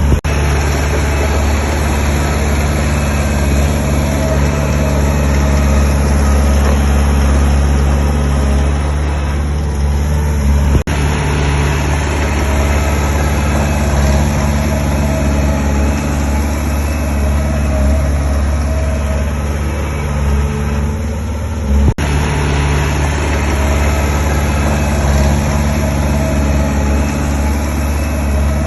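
Heavy diesel engine of earthmoving machinery running steadily, a low, even drone. It drops out sharply for an instant twice.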